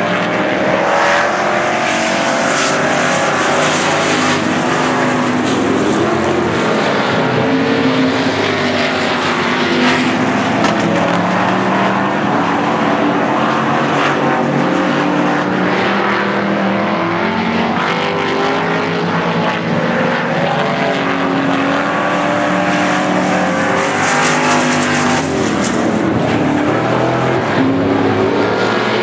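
A field of Pure Stock race cars running laps at full racing speed. Many engines sound at once, loud and continuous, their pitches rising and falling as the cars go through the turns and down the straights.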